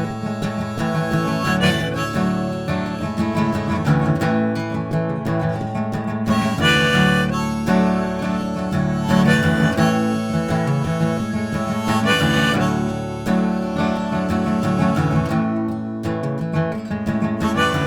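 Harmonica playing an instrumental break over a strummed acoustic guitar in open G tuning.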